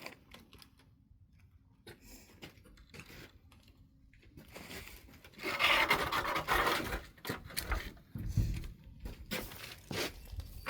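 Handling noise: scattered clicks, then a louder rustling scrape from about five and a half seconds in, followed by a few sharp clicks and low knocks.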